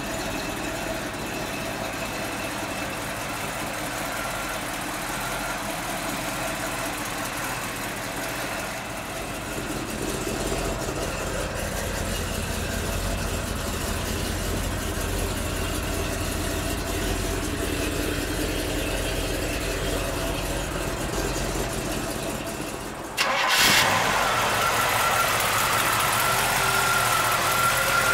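A Chevrolet 454 big-block V8 in a 1972 Chevelle running steadily. About 23 seconds in, the engine sound becomes suddenly louder and closer, with a thin high whine over it.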